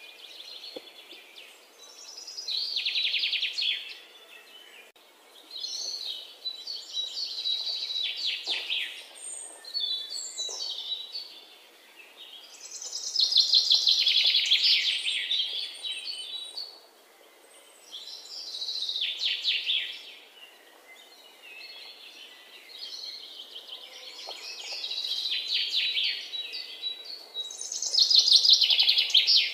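Birds singing: phrases of rapid trills, each a second or two long, recurring every few seconds over a faint steady hiss.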